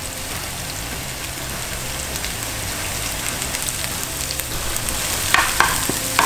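Sliced scallions and garlic sizzling steadily in hot canola oil in a frying pan. Near the end a spatula starts stirring them, with a few taps and scrapes against the pan.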